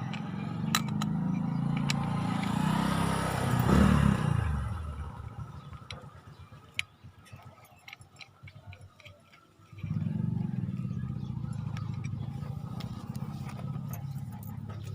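A motor vehicle's engine hum builds and passes by, loudest about four seconds in, its note then falling away. Scattered light clicks and taps follow. About ten seconds in, a steady low engine hum starts up again.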